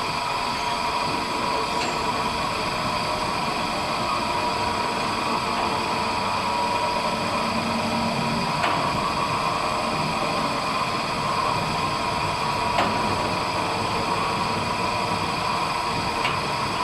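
Sliding autogate motor running as it drives the gate along its track: a steady mechanical hum with a constant whine, and a few light clicks about halfway through, again a few seconds later and near the end.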